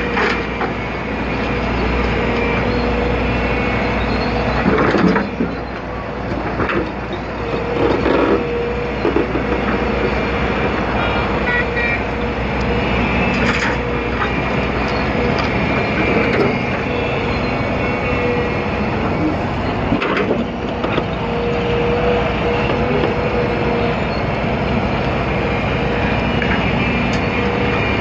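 Hitachi ZX200 excavator's diesel engine running under load with a steady hydraulic whine. A few clanks and thumps come through, about four times, as the bucket works while loading the truck.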